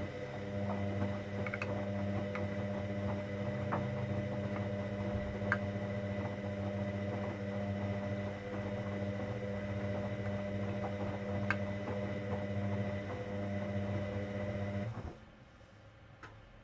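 Hoover Dynamic Next washing machine mid-cycle, a steady electric hum with a few light clicks, cutting off abruptly near the end.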